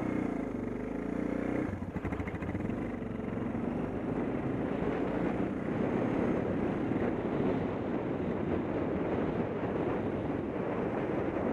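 Suzuki DR650's single-cylinder four-stroke engine running, with a steady note for the first couple of seconds. About two seconds in the bike gets under way, and the engine sound turns rougher with wind rushing over the camera microphone.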